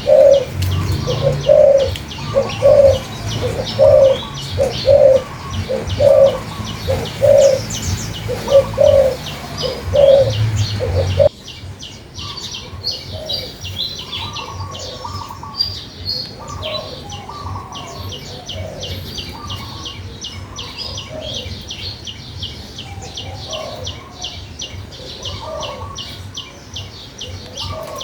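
Birdsong. For about the first eleven seconds, a dove coos in a quick, steady run of low coos, roughly one every 0.7 seconds, over a low rumble. The sound then cuts abruptly to a different scene of many small birds chirping and twittering, high and busy.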